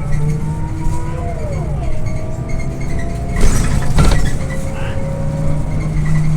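Scania OmniLink I city bus under way, its drivetrain whining in tones that fall and rise as the bus changes speed over the low run of the engine. A brief rattling clatter comes about three and a half seconds in.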